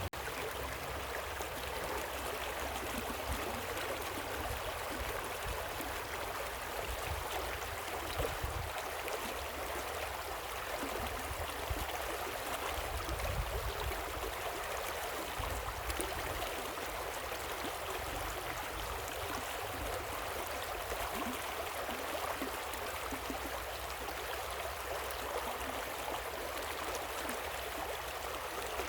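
Steady rush of water falling and flowing over rocks in a waterfall and river, an even noise that hardly changes.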